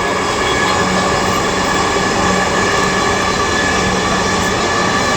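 Metro train running between stations, heard inside the carriage: a steady rumble of wheels on the rails under a set of steady whining tones from the motors, with no change in pitch.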